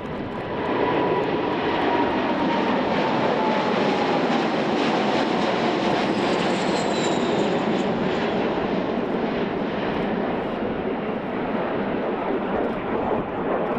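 Boeing 747-8 Intercontinental's four turbofan engines at takeoff power: a loud, steady jet noise that swells about a second in, with a whine that slowly falls in pitch as the airliner goes by.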